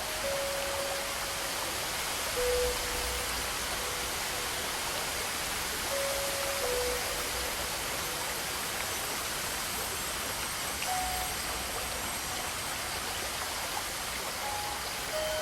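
Steady rushing water of a stream or small waterfall, an even hiss with no breaks. A few soft held notes sound faintly over it, some in pairs stepping down in pitch.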